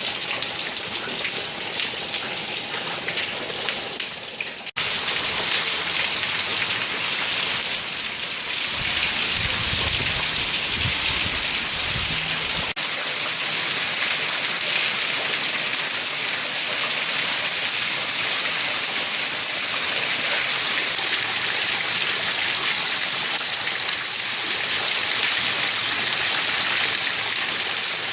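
Heavy rain falling in a steady, dense hiss. A low rumble joins it for a few seconds around the middle.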